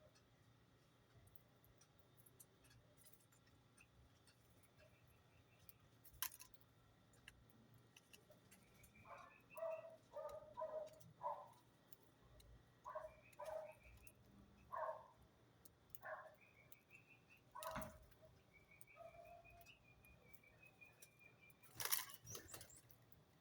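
Faint chirping of small birds: clusters of short repeated notes in the second half, with a few sharp clicks about six seconds in, near eighteen seconds and near the end.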